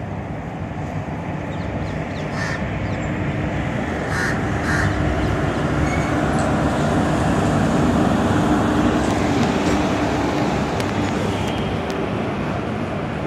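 WAP-4 electric locomotive and its express coaches arriving past a platform. A steady hum grows louder as the locomotive draws level, about eight seconds in, then the coaches keep rumbling as it eases. A crow caws three times in the first five seconds.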